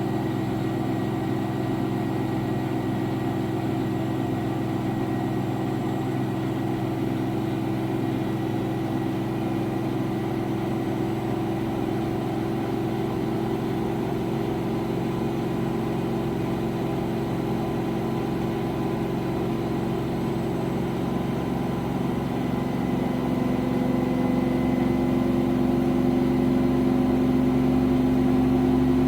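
V-ZUG Adora V2000 washing machine's drum motor running with a steady hum, getting louder and a little higher in pitch over the last few seconds as the drum speeds up.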